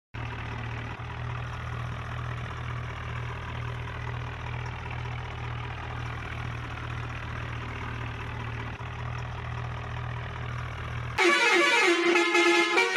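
A steady, evenly pulsing engine-like drone, then, about eleven seconds in, a sudden much louder horn-like sound with several pitches.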